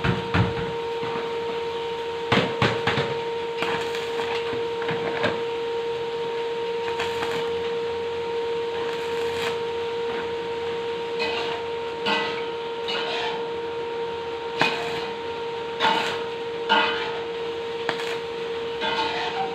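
Irregular hammer knocks and taps on steel hollow-section pipe, a few seconds apart and more frequent in the second half, over a steady electrical hum.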